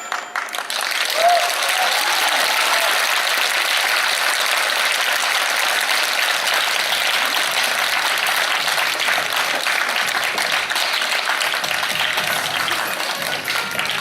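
Audience applauding steadily just after a dance number's music stops, with a brief shout from the crowd about a second in.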